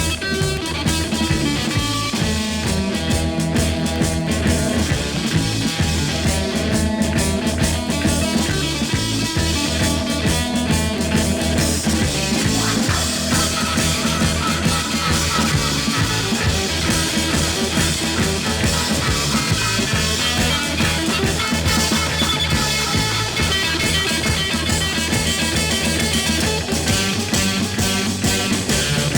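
Instrumental passage of a rock song with drum kit, bass and guitar, no singing.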